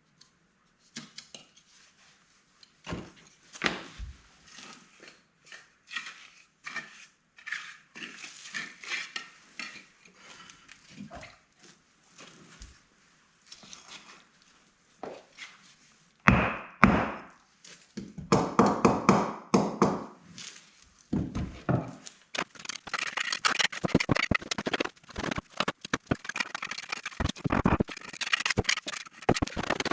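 Irregular knocks, taps and scrapes of brickwork by hand: bricks being set and tapped and a trowel scraping mortar, busier in the second half.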